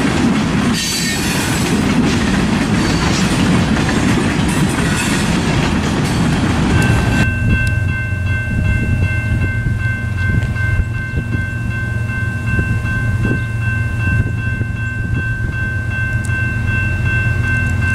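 A train on the rails: loud rushing wheel and rail noise for the first several seconds, then an abrupt change to a steady low rumble with a thin, steady high whine, as from a locomotive.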